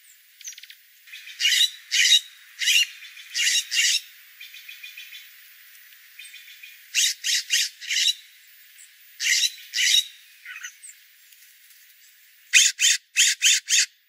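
Bird calls: short, loud calls coming in quick runs of three to five, four runs in all, with fainter chatter between them.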